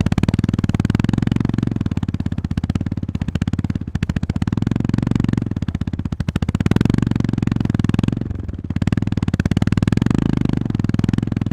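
Honda GB350S single-cylinder engine running under way, its firing pulses rising and falling with the throttle. It eases off briefly about four seconds in and again about eight seconds in, then pulls again.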